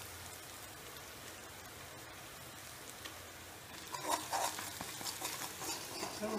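Food sizzling gently in hot oil in a wok; about four seconds in, a steel spoon starts stirring and scraping it, with quick clicks and louder sizzling.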